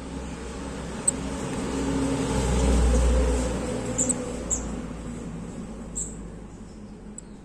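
A low rumble swells to a peak about three seconds in and fades away, like a vehicle passing. Over it come five or six short, high chirps from a small bird.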